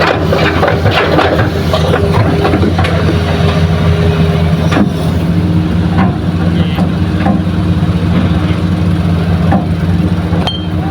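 Diesel engine of heavy earthmoving machinery running at a steady speed, with a few clanks in the first couple of seconds and a slight change in the engine note about halfway through.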